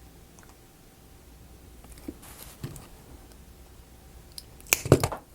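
Laser-cut wooden model parts being handled: a few soft taps and rustles, then a quick cluster of sharp clicks near the end.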